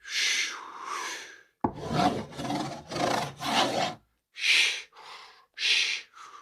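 Spoon handle scraping across a cardboard box in a series of short strokes, as in writing a word, with a rasping, rubbing sound. The last few strokes are higher and hissier.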